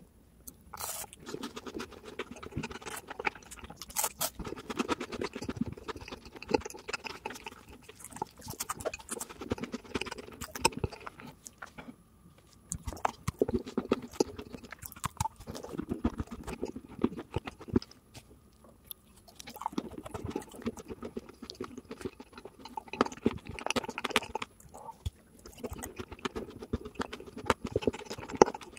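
Chewing and crunching of chocolate and a chocolate-covered wafer bar, a dense run of small crackles and clicks that comes in bouts with brief pauses.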